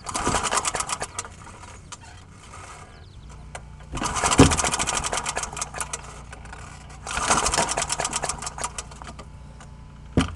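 Old lawnmower engine being pull-started three times: each pull of the recoil cord spins it over in a quick run of clicks that slows and dies away without the engine catching. A short sharp knock near the end.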